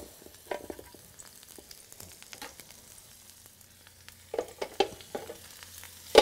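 Portobello mushrooms sizzling faintly in hot olive oil in an electric skillet, with a few light knocks and scrapes of a utensil against the pan, more of them near the end.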